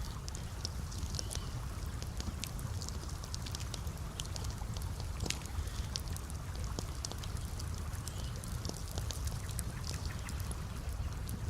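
Campfire crackling, with frequent small irregular pops and snaps over a steady low rumble.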